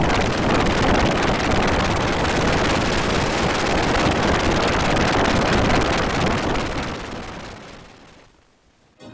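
A loud, steady rush of noise with a rumbling low end, fading out over about two seconds near the end.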